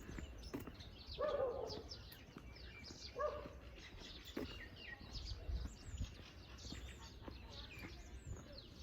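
Several small birds chirping and twittering with many quick, high chirps. Two short, lower, louder calls stand out about one and three seconds in.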